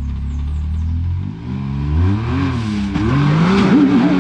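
Can-Am X3 side-by-side's turbo three-cylinder engine climbing a rock ledge: it idles steadily for about a second, then revs hard in surges, its pitch swinging up and down. The revving is loudest near the end, with a rough rasp of tyres and rock growing under it.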